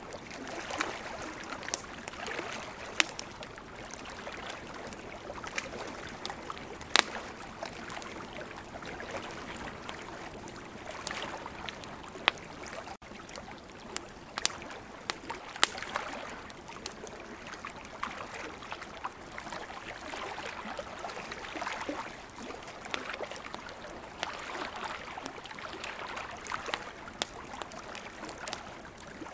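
Wood campfire crackling, with irregular sharp pops, over a steady wash of ocean waves that swells and eases every few seconds.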